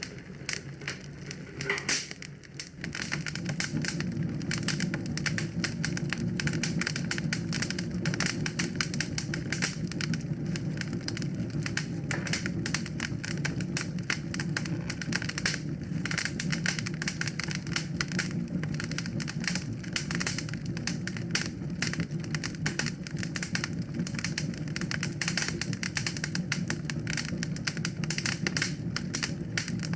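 Wood fire crackling with dense, irregular pops and snaps, over a steady low rumble that grows louder about three seconds in.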